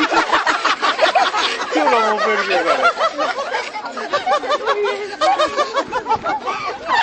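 Bird calling in rapid runs of short notes that rise and fall in pitch, a chattering, laugh-like series.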